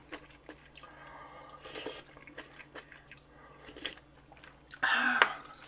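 Close-miked chewing and eating sounds from a person, with scattered small clicks and a louder burst of noise about five seconds in.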